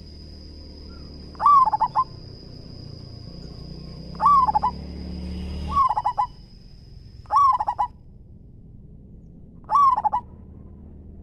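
Zebra dove (perkutut) cooing: five short rippling coos, each a quick stutter of notes, a couple of seconds apart. A steady high-pitched tone runs behind the first two-thirds and stops near the end.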